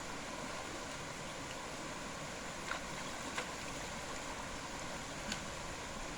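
Steady hiss of night-time background noise with a faint high-pitched hum running through it, broken by three small clicks near the middle.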